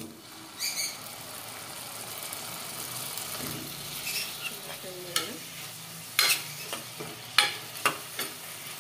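Potato cubes and curry leaves sizzling in hot oil in an aluminium pressure cooker, with a spoon stirring them and clicking against the pot a few times in the second half.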